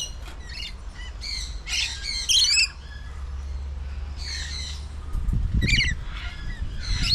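Laughing kookaburras calling: bursts of harsh, repeated squawking notes several times over, with a low rumble underneath that swells about five seconds in.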